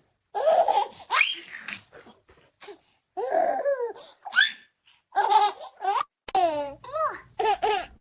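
Baby giggling and babbling in short, high-pitched bursts of laughter, with a longer squeal falling in pitch about six seconds in.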